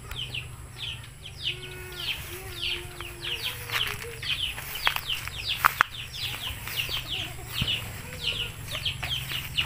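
Birds chirping over and over, short falling chirps several times a second, with a few sharp clicks about five to six seconds in.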